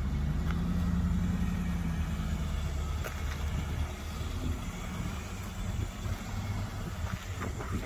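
A motor vehicle's engine running at low revs: a low hum, strongest for the first two and a half seconds and then fading, over a steady low rumble.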